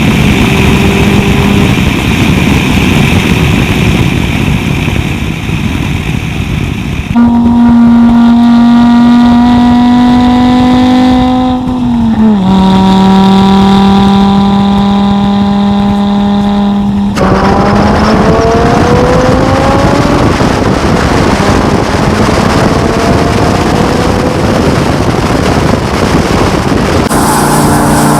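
Audi TT clubsport turbo's turbocharged 2.5-litre five-cylinder engine and exhaust, loud throughout. It holds a steady high note, drops in pitch about twelve seconds in, then rises in pitch in several pulls under acceleration from about seventeen seconds.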